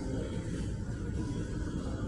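Jet engines of a Boeing 737 MAX 9 at takeoff power during the takeoff roll, a steady low rumble.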